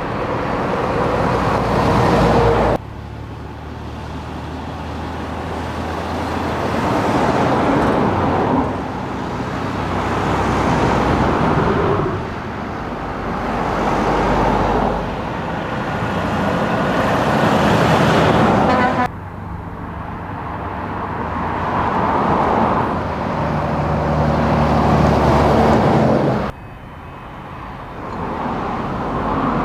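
Heavy trucks' diesel engines driving past one after another, each swelling and fading, with sudden cuts between one truck's sound and the next.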